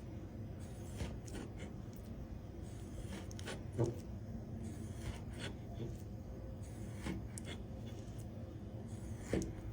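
Knife slicing raw king salmon on a cutting board: scattered soft cutting strokes and light taps, with a louder knock about four seconds in, over a low steady hum.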